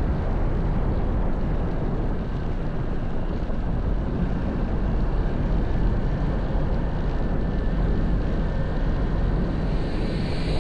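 Honda XR190L single-cylinder motorcycle engine running steadily while riding, with wind rushing over the helmet-mounted microphone.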